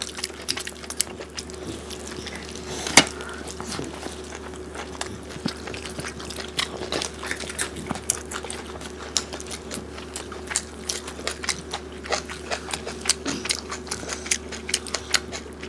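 Close-miked eating sounds of rice and curry eaten by hand: chewing, lip smacks and many small wet clicks, with one louder click about three seconds in.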